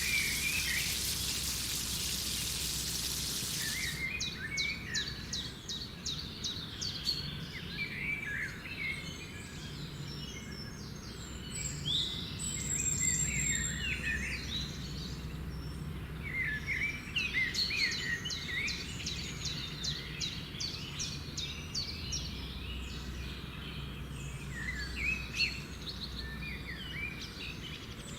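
Birds chirping repeatedly over a steady low background hum. An even hiss fills the first few seconds and cuts off suddenly about four seconds in.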